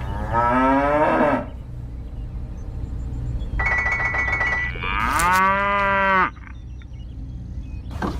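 A cow mooing: two long calls, the first about a second long and the second about a second and a half, with a short steady high tone between them.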